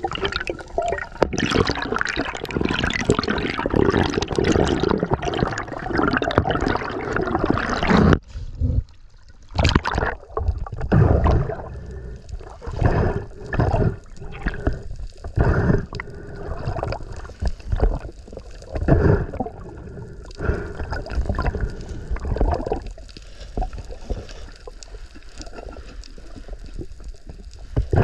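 Water gurgling and sloshing around a camera at or under the sea surface, a dense rush for the first several seconds, then broken into irregular separate gushes.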